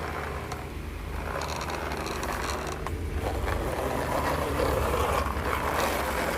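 Plastic gearing of a toy speed car whirring and ratcheting as it is handled, growing louder about halfway through.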